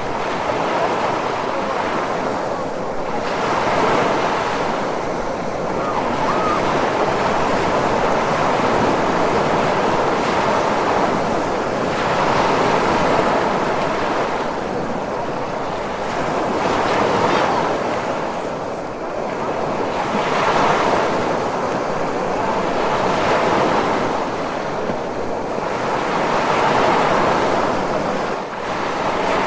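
Ocean surf: waves breaking and washing in a continuous hiss that swells and eases every few seconds.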